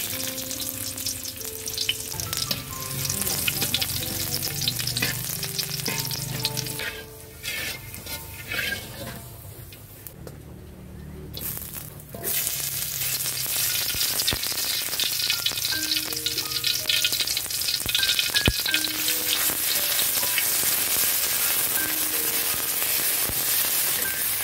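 Hot cooking oil sizzling in a wok, then ground spice paste and a lemongrass stalk frying in it, stirred with a metal spatula. The sizzle fades for a couple of seconds about ten seconds in, then comes back stronger.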